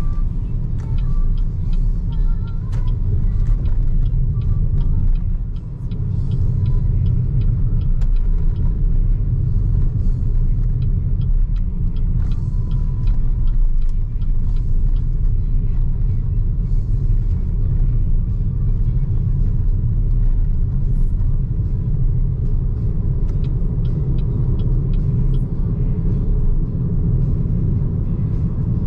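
Steady low rumble of tyre and wind noise from a BYD Seagull electric car cruising on an expressway, with no engine note, and scattered light ticks throughout.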